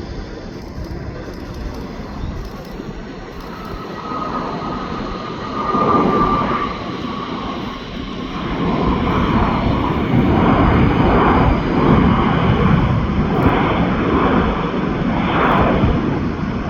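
Jet airliner's engines running loud. A whine slides down in pitch in the first half, and the rumble grows louder about halfway through and stays up.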